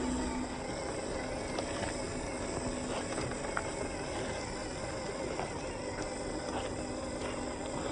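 Radio-controlled off-road car driving over rocks: a steady motor hum with scattered clicks and knocks from the wheels on stone.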